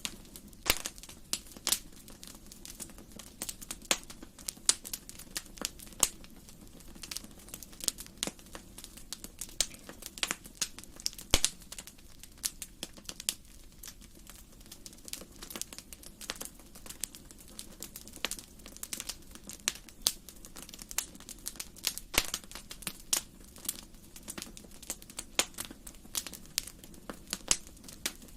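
Wood fire in a fireplace crackling, with irregular sharp pops over a soft steady hiss.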